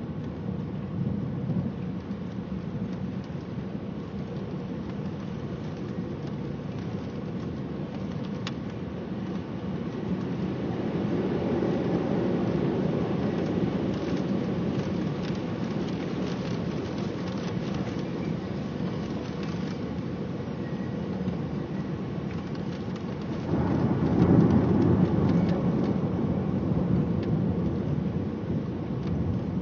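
Steady rain with rolling thunder: a long rumble swells about a third of the way in, and a louder one breaks in suddenly about three-quarters through.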